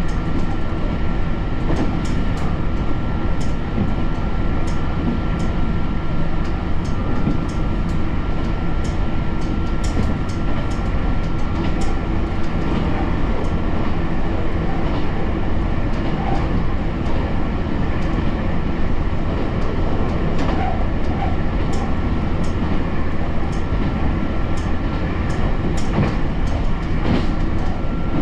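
Kyoto Tango Railway diesel railcar running along the line, heard from inside the car: a steady running noise with a constant high whine, and scattered clicks of the wheels over the rails.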